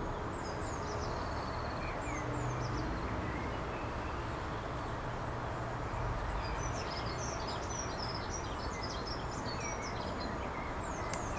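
Small birds chirping in quick, short high notes, busiest in the second half, over a steady low background rumble. A single sharp click comes near the end.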